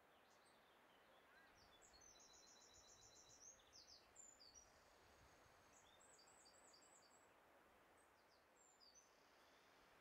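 Faint songbird singing: a fast trill of high repeated notes about two seconds in, then more short phrases of quick notes later, over a steady low hiss.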